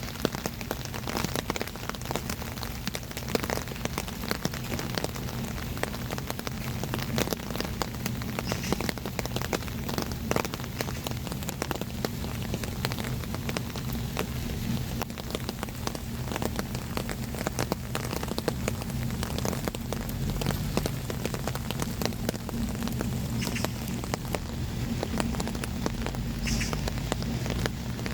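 Steady rain falling on hard surfaces, with many sharp, irregular drips and splashes.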